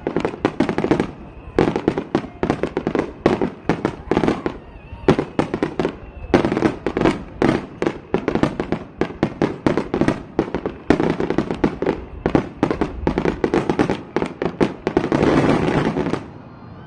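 Fireworks going off in rapid succession, many sharp bangs a second with little pause, running together into one dense, continuous burst near the end before stopping abruptly.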